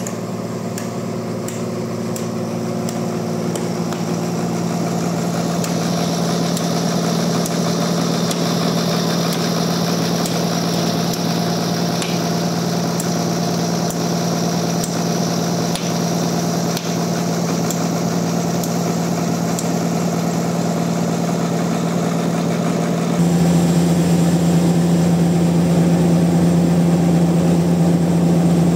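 Sawmill machinery running steadily with an engine-like drone. A higher whine joins about six seconds in, and the drone steps up in loudness about 23 seconds in.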